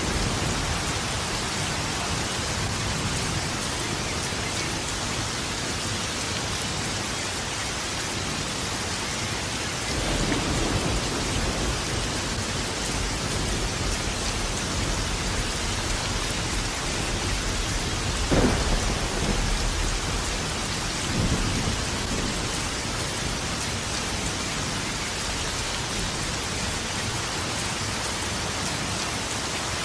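Steady rain with thunder: a low rumble swells up about a third of the way in, then a sharper, louder clap a little past halfway, followed by a smaller rumble a few seconds later.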